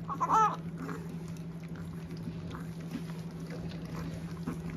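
A puppy gives a short, high whine about a quarter second in. Faint lapping and smacking of puppies drinking replacement milk from a dish follow, over a steady low hum.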